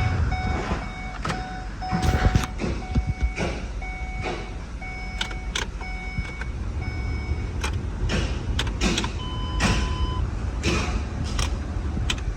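Repeated short electronic beeps at an uneven pace, mostly on one pitch with a higher beep near the middle, over scattered sharp clicks and knocks and a low rumbling background.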